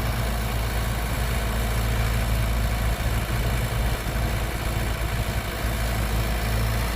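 Heavy diesel engine of earthmoving machinery running steadily, with no revving.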